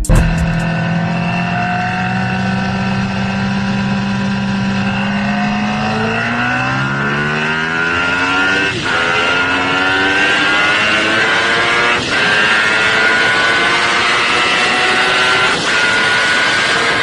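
High-performance motorcycle engine accelerating hard through the gears. The pitch climbs steadily and drops back at three upshifts, the first about halfway through and two more near the end.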